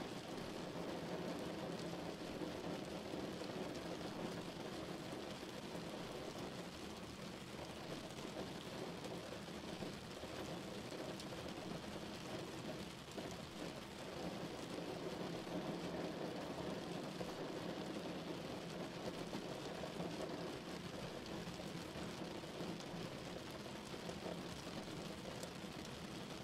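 Steady rain falling outside a window, heard from indoors as a constant, even hiss with no thunder.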